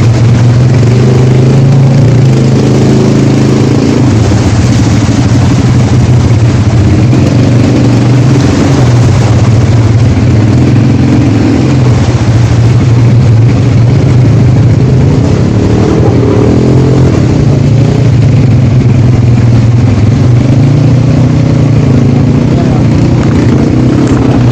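ATV engine running close by at a steady speed, its note swelling and easing a little with the throttle.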